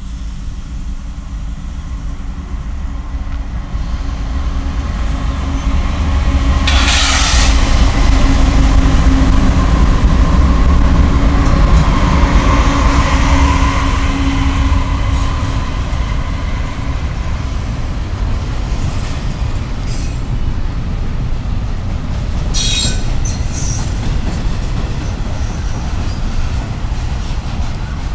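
Diesel-hauled freight train passing close by. The locomotives' heavy rumble and engine hum build to their loudest about eight to fourteen seconds in, then the freight cars roll past with high-pitched wheel squeals.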